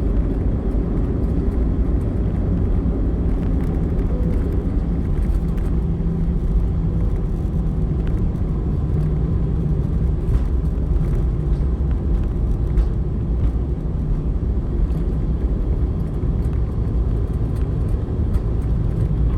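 Airliner cabin noise as the aircraft rolls on the ground after landing: a steady low rumble of the engines and the undercarriage on the runway or taxiway, with a few faint knocks.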